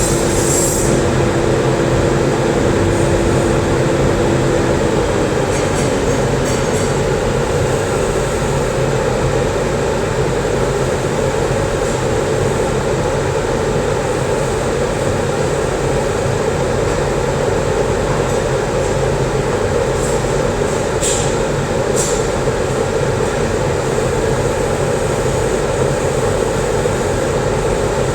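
Steady mechanical drone of TIG welding equipment running. A steady tone drops away about five seconds in, and two short clicks come near the end.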